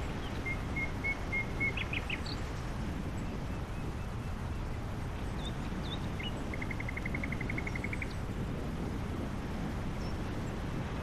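Small birds calling over a steady low rumble: a short run of clear whistled notes near the start, then a fast, even trill of about a dozen notes in the middle.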